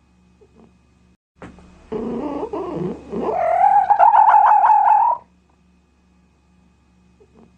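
An animal's call: a low, grumbling yowl that rises into a held, wavering cry and stops about five seconds in, after a couple of seconds of near quiet.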